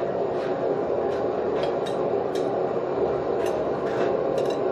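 Forge running with a steady rushing noise, with scattered light metallic clicks and ticks over it, about eight in all, and no heavy hammer blows.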